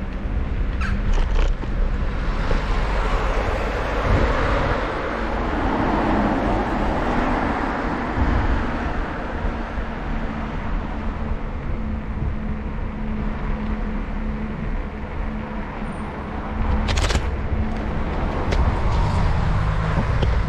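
Wind rumbling on the microphone of a moving bicycle, with a motor vehicle passing, swelling and fading between about two and eight seconds in. A sharp click comes near the end.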